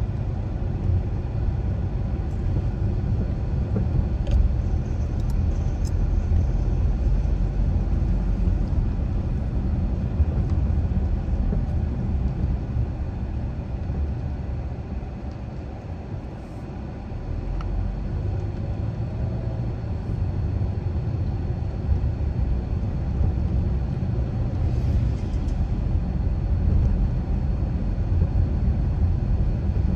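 Car driving along a residential road: steady low rumble of tyres and engine. It eases briefly about halfway through, as if slowing, then builds again.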